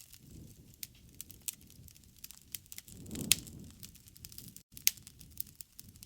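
Wood fire crackling, with irregular sharp pops and snaps over a low rushing rumble; the loudest pop comes a little over three seconds in.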